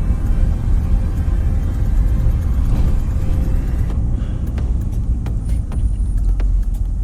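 A truck on the move, with a steady low engine and road rumble.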